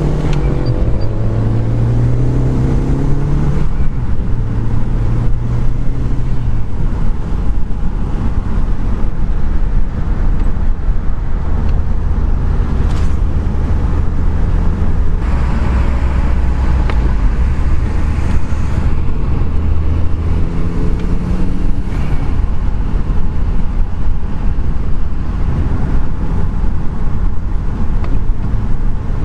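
Audi TT 8N's turbocharged 1.8-litre four-cylinder engine heard from inside the cabin while driving. The engine note rises during the first few seconds and then settles into a steady low drone over constant tyre and road noise.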